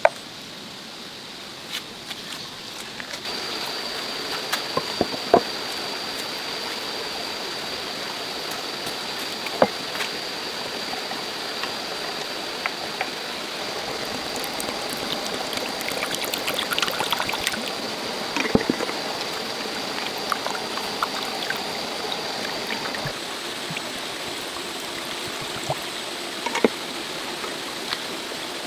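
Water running steadily, like a small stream or trickle, starting about three seconds in, with scattered small knocks and clicks over it.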